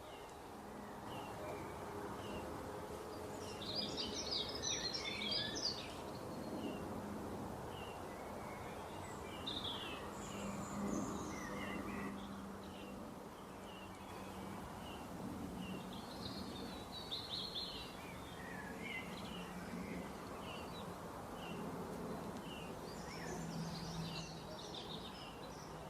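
Small birds chirping: a short high chirp repeats about once a second, broken three times by bursts of rapid twittering, over a low steady hum.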